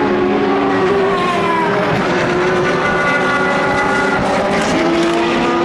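Endurance race cars' engines running hard at high revs, several engine notes overlapping. The pitch falls over the first two seconds, then steps up and climbs again.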